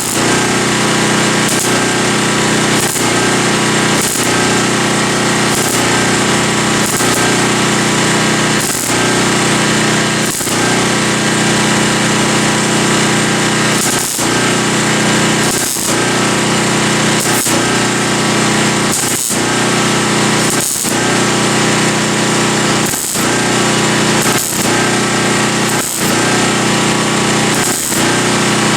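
A power tool working on sheet metal runs almost without a break, with a short dip in level about every one to two seconds.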